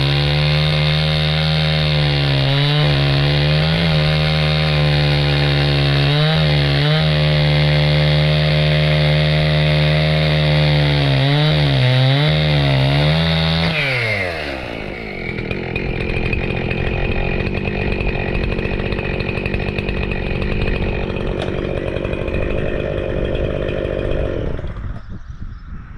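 Chainsaw running at full throttle through dead oak, its engine pitch sagging briefly several times as the chain bites into the wood. About 14 seconds in the engine winds down, and a rougher, lower running sound carries on until it falls away near the end.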